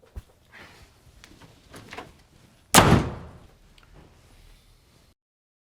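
A door slamming shut once, loud and sharp, just under three seconds in, after a few faint knocks and shuffles.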